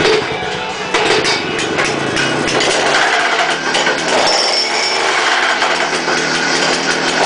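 Wacker BH23 petrol breaker running, its two-stroke engine driving rapid, continuous hammer blows. It gets louder about a second in.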